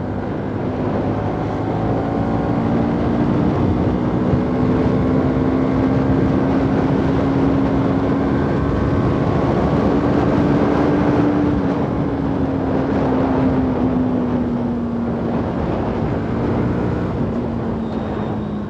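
Bajaj Pulsar NS200 single-cylinder engine running at steady riding revs over a steady rush of noise. Its note rises slightly about ten seconds in, then eases down toward the end.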